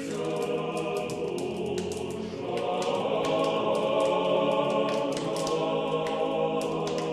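A choir singing slow, sustained chords as closing music.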